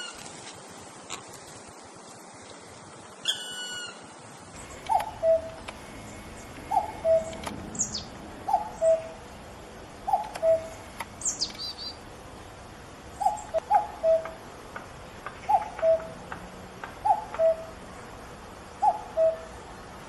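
A bird repeating a low two-note call, a higher note stepping down to a lower one, about every one and a half to two seconds, with a few short high chirps from another bird.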